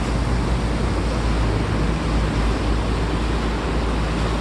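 Water taxi under way: a steady low rumble of its motor mixed with water rushing past the hull and wind on the microphone.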